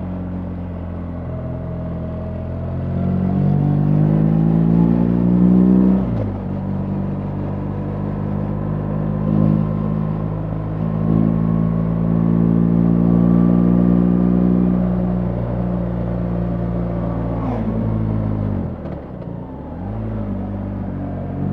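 BMW R 1300 GS boxer-twin engine pulling the bike along: the revs climb for a few seconds, drop sharply about six seconds in at an upshift, hold steady at cruise, then fall away near the end and pick up again.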